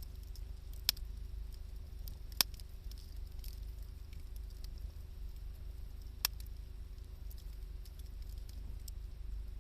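Wood campfire burning with faint crackling and three sharp pops, about one, two and a half and six seconds in, over a steady low rumble.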